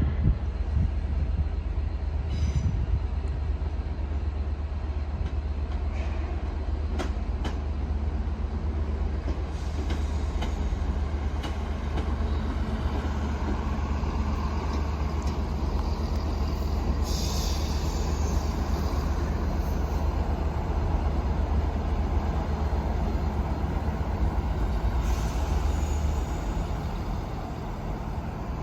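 A train running beside the platform with a steady low hum, a few sharp clicks in the first half, and two brief high hisses later on; the hum eases shortly before the end.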